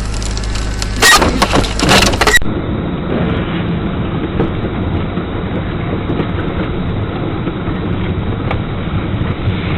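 A car collision: a cluster of loud crunching impacts about a second in, lasting about a second and a half. It is followed by the steady, muffled road and engine noise of a car driving.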